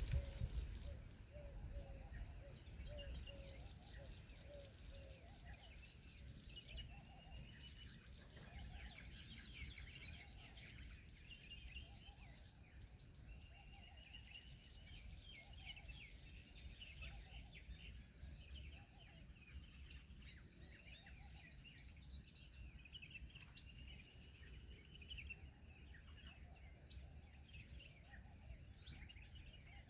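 Faint chirping and trilling of small birds, with a low rumble underneath. A few sharp clicks come near the end.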